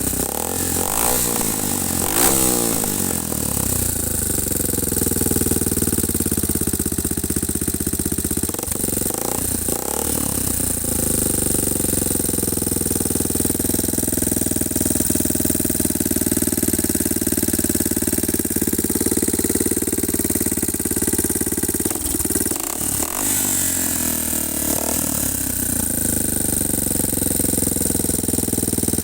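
Yamaha XT225 Serow's single-cylinder four-stroke engine running through a cheap aftermarket exhaust with its dB killer baffle missing. The engine is blipped up and down near the start, again about a third of the way in and once more near the end, and holds a steady run in between.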